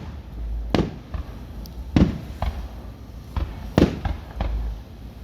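Fireworks going off: a string of sharp bangs, about six in five seconds, the loudest about two seconds in and near four seconds, with low rumbling between them.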